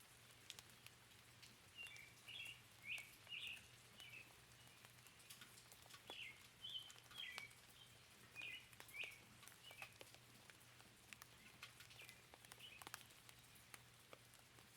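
Faint bird chirps, a run of short high notes in the first half or so, over light rain with scattered drops ticking.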